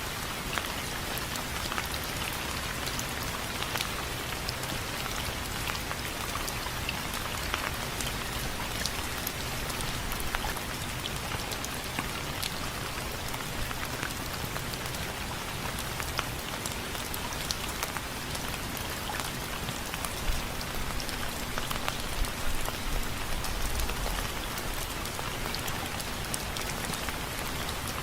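Steady rain pattering on window frames, with many separate drops ticking through a constant hiss. A low rumble swells briefly about three quarters of the way through.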